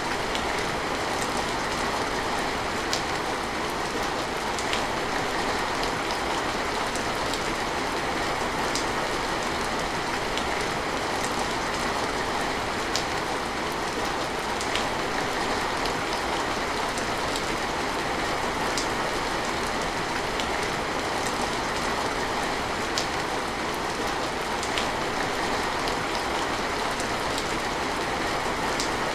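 Steady rain falling, with sharper drops ticking every second or so.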